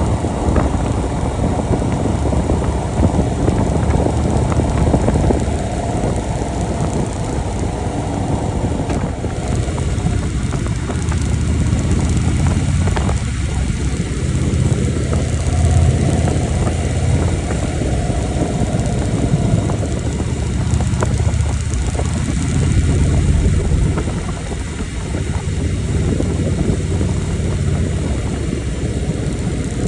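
Motorcycle engine running while riding, swelling and easing every few seconds, over a steady rush of wind and road noise.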